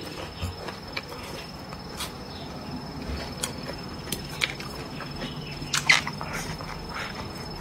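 Close-up eating sounds: a person chewing and biting food, with scattered soft wet clicks and crunches and a louder cluster of them about six seconds in as a new mouthful goes in. A faint steady high whine sits underneath.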